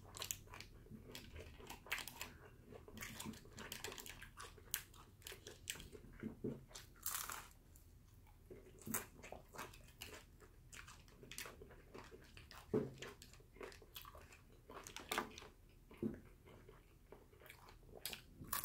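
A person biting and chewing waffle fries close to the microphone, with many small, sharp crunches and mouth clicks scattered through.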